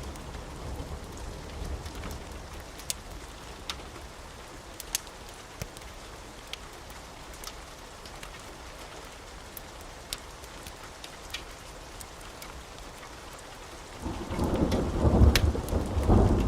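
Steady rain with scattered sharp clicks; near the end a loud rumble of thunder rolls in.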